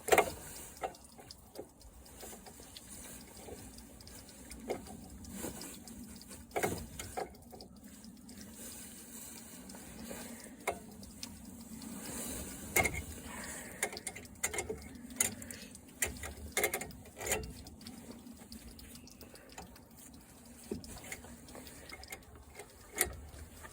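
Irregular metal clicks, clinks and knocks of hand tools and loose parts being handled while a lawn mower is taken apart, the sharpest knock right at the start.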